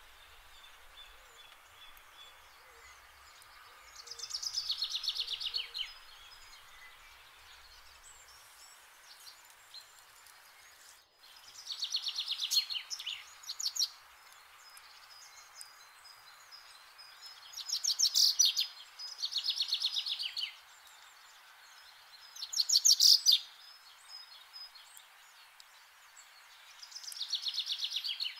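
A songbird singing short rapid trilled phrases, about six of them spaced several seconds apart, over faint steady outdoor background noise.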